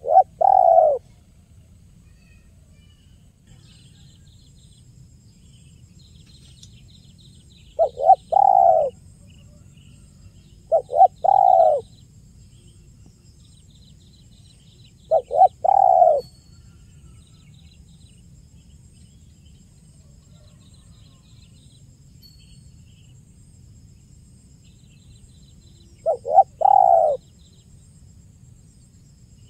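Spotted dove (tekukur) cooing: five calls spaced several seconds apart, each two short notes followed by a longer coo. Faint, high chirping sounds underneath.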